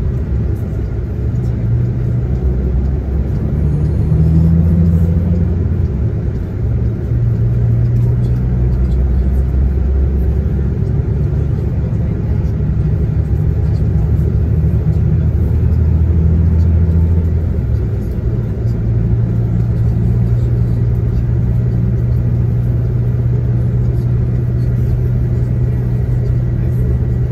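A bus's diesel engine heard from inside the passenger cabin while driving, its low drone stepping up and down in pitch several times as it pulls away and changes gear, then settling into a steady drone for the last third.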